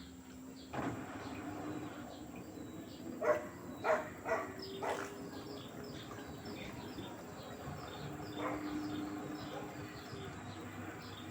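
LG direct-drive washing machine running a 60 °C cotton wash: a steady motor hum with a few knocks from the drum in the middle. Faint bird chirps are heard over it.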